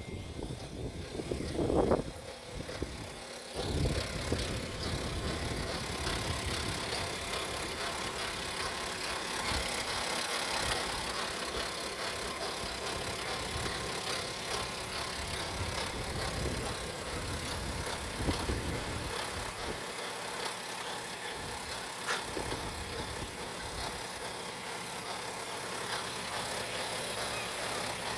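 The BMW X5 E70's 3.0-litre N57D30A straight-six turbodiesel runs steadily at idle on a test run. There are louder surges about two seconds in and again near four seconds.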